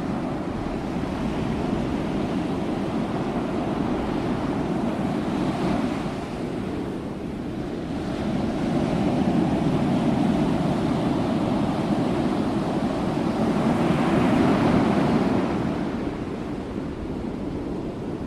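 Sea waves breaking and washing on the shore, a continuous surf that swells and eases, with two larger breakers about six seconds apart.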